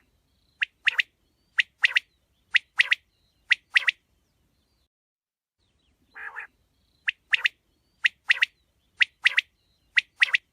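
A quail calling in two bouts. Each bout opens with a short low raspy note, then four quick three-note phrases about a second apart, each a sharp note followed by a close pair. There is a pause of about two seconds between the bouts.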